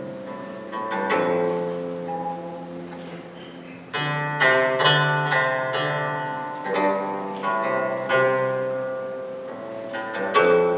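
Guzheng (Chinese zither) music: plucked strings sounding notes that ring and die away, growing louder with a run of strong plucks about four seconds in.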